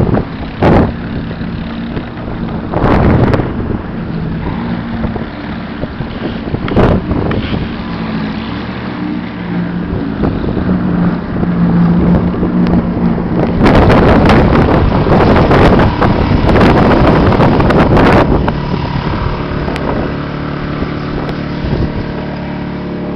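A motor engine running steadily, with heavy wind buffeting the microphone in loud gusts, the strongest lasting about four seconds past the middle, and a few sharp knocks early on.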